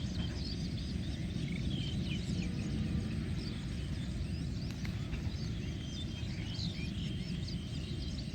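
Many small birds chirping at once, a dense chorus of short, quick calls over a steady low rumble of outdoor background noise.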